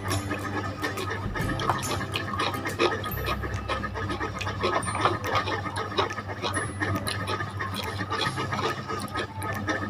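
Close-up eating sounds of spicy instant fried noodles being chewed: many small irregular wet mouth clicks and smacks, with no pause.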